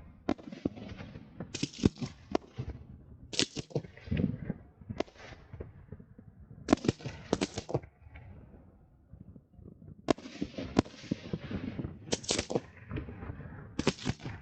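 Fireworks going off: sharp bangs and cracks every second or so, some in quick pairs, over a low rumble, with a quieter stretch a little past the middle.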